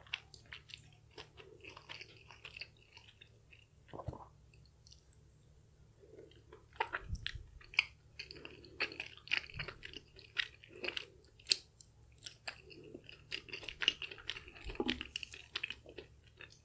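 Close-miked chewing of chewy Korean spicy rice cakes and black bean noodles: wet, sticky mouth sounds with many quick clicks, quieter for a couple of seconds about four seconds in, then steady chewing again.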